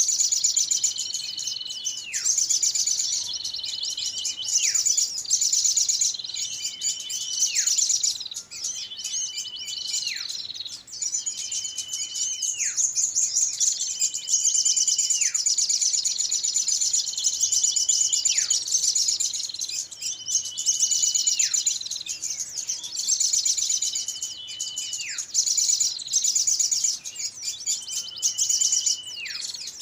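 Small-bird lure call track: dense, high-pitched chattering of small birds. Over it, a whistled note holds level and then drops steeply, repeating every two to three seconds.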